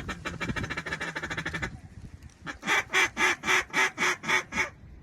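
Mallard duck call blown by a hunter: a fast rattling run of short notes, then a string of about nine loud quacks, about four a second.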